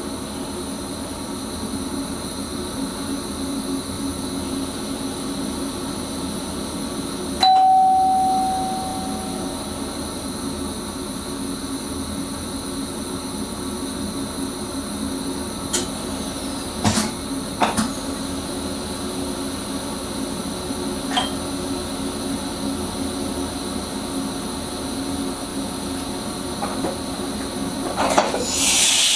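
Cab of a Sprinter electric train running steadily, a constant rumble with a steady motor hum. About a third of the way in, a single bell-like ding rings and fades over a couple of seconds; a few light clicks follow, and a rush of hiss starts near the end.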